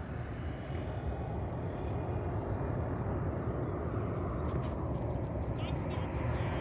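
Aircraft engine noise: a steady rush that grows gradually louder as the plane draws nearer.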